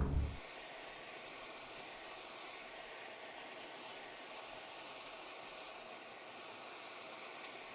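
Steady, even hiss with no low rumble, unchanged throughout.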